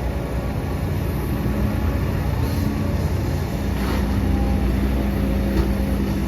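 Heavy diesel earthmoving machinery running steadily, with a low engine hum and a held tone, and a few faint brief knocks about a third, two thirds and near the end of the way through.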